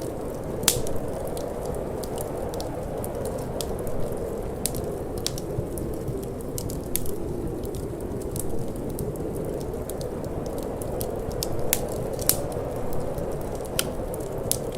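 Wood fire crackling, with sharp pops at irregular moments, the loudest about a second in, over a steady low rush of wind.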